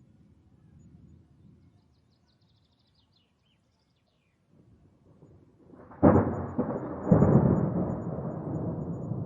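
Thunderclap: a faint low rumble builds into a sharp crack about six seconds in, a second loud peak about a second later, then a long rolling rumble slowly fading.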